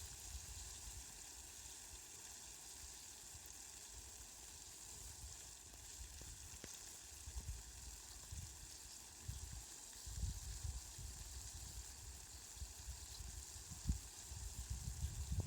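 Steady rain falling, an even fine hiss, with brief low rumbles now and then, more of them from about ten seconds in.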